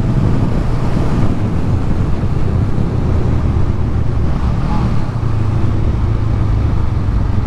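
Motorcycle engine running steadily with a low rumble, under a steady rush of wind noise on the microphone.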